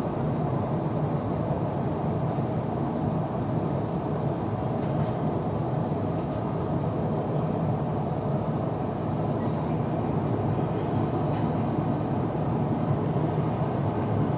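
Steady cabin noise inside an Airbus A350-941 airliner in flight: an even low rush of airflow and engine drone, with a few faint ticks.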